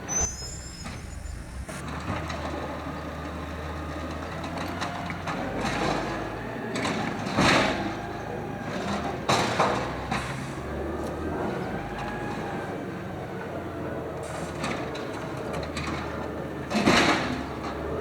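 Automated side loader garbage truck working: the engine runs steadily under a whine that rises and falls, with three loud, short, hissing or crashing bursts, about seven and a half seconds in, two seconds later, and near the end.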